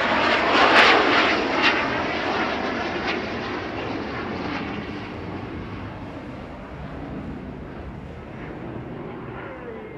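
Harrier jump jet's Rolls-Royce Pegasus engine passing, loudest about a second in, then fading steadily as it flies away.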